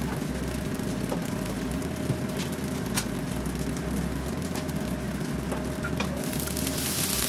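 Food frying in hot oil in a pan: a steady sizzle with scattered pops and crackles, over a faint steady hum. The sizzle grows louder and brighter about six seconds in.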